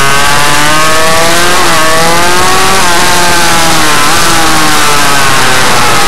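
Small motard motorcycle engine being ridden hard, its pitch rising and falling repeatedly as the throttle is opened and shut. It is very loud and harsh on the microphone.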